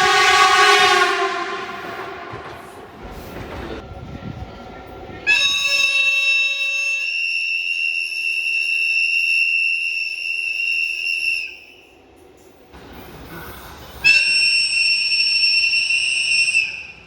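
Train horn sounding two long warning blasts: a steady high tone held for about six seconds, then after a short gap a second blast of nearly three seconds. The tail of an earlier sound fades out in the first second or two.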